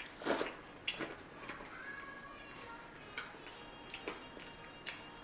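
Scattered mouth clicks and smacks of people eating ice cream sandwiches fast, with a breathy burst just after the start and a few sharper clicks later on.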